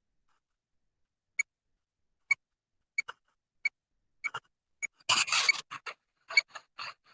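Ghost box app on a phone sweeping: short, pitched blips about every second, then a loud burst of static about five seconds in, followed by more blips.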